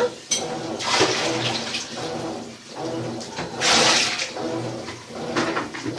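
Maytag washing machine running with water rushing and sloshing in surges, over a steady motor hum.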